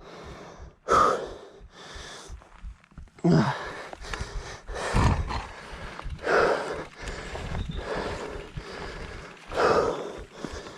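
Heavy breathing: loud breaths in and out every second or two, one with a short voiced gasp, over a low rumble of wind on the microphone.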